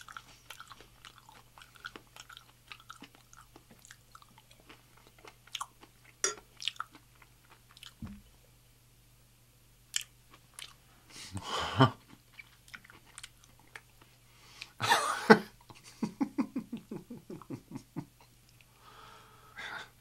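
Close-miked chewing with wet mouth clicks and smacks. About halfway through come two loud breathy bursts a few seconds apart, then a quick run of short pitched vocal pulses.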